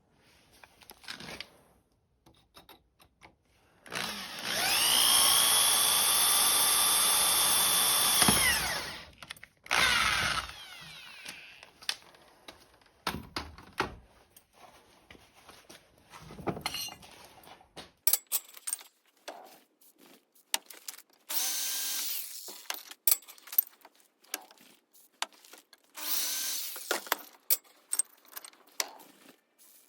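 An electric power drill runs for about four seconds, its motor pitch rising as it spins up and falling as it winds down, then gives a shorter burst. After that come scattered clicks and knocks of tool handling, with two more short runs of noise later on.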